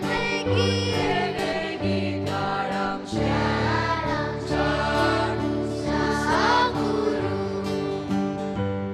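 A choir singing a traditional Goan Christmas carol with instrumental accompaniment, the voices carrying a gliding melody over a steady bass line.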